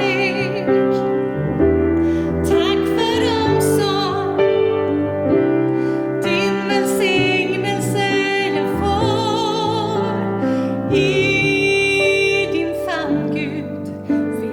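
A woman singing with a wide vibrato to piano accompaniment, holding one long note near the end.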